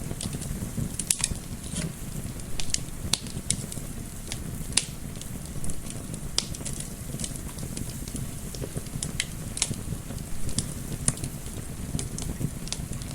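Wood fire crackling, with many irregular sharp pops and snaps over a steady low rumble of gentle wind.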